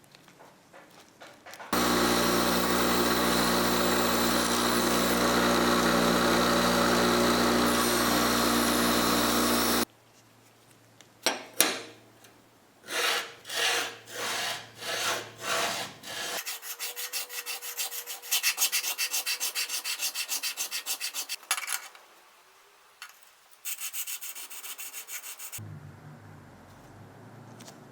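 Restoration work on a metal hand plane in several short takes: a power tool runs steadily for about eight seconds and stops, then come about eight separate rubbing strokes, then two stretches of fast, even scraping, like filing or sanding.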